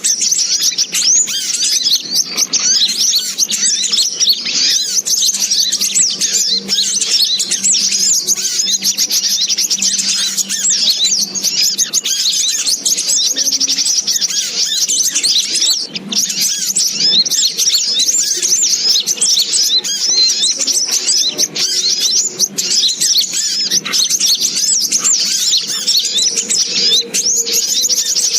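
Sogok ontong bird calls played as a trapping lure: a dense, unbroken stream of rapid, high-pitched chirps and twitters.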